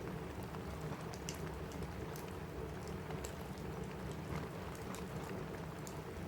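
Steady rain falling on a cabin roof, a constant hiss with scattered sharp ticks a few times a second.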